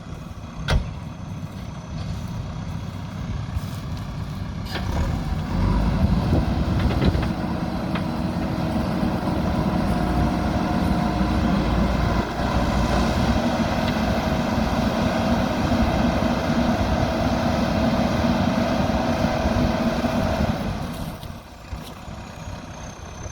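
Diesel engine of a JCB backhoe loader working, growing louder about five seconds in and holding there with a steady whine on top before easing back near the end. A sharp knock about a second in.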